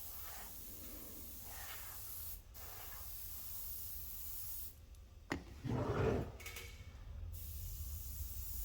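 Airbrush hissing as it sprays paint. It cuts out for a moment about two and a half seconds in, and again for a couple of seconds past the middle. During that second pause there is a sharp click, then a short handling knock.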